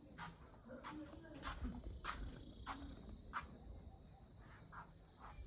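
Insects chirping: a faint steady high buzz with a sharp chirp repeating about every half second to two-thirds of a second, and faint voices underneath.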